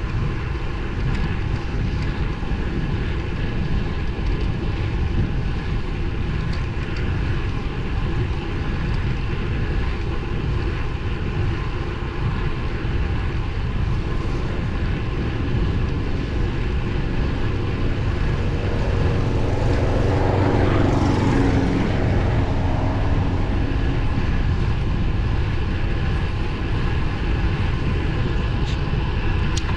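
Steady rush of wind and road noise from riding a road bike on narrow 23 mm tyres. A louder engine-like hum swells and fades about twenty seconds in, like a vehicle going by.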